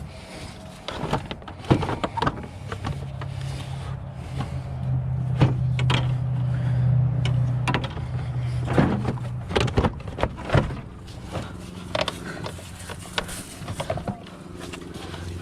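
Irregular clinks and knocks of hand tools and metal parts being worked on a van's front end, with a steady low hum for several seconds in the middle.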